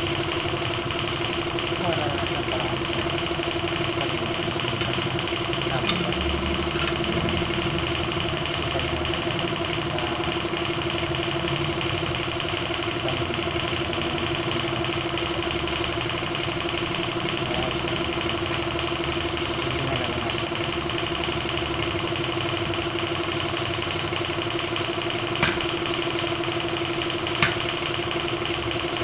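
A machine running with a steady, unchanging hum, with a few sharp clicks: two about six to seven seconds in and two near the end.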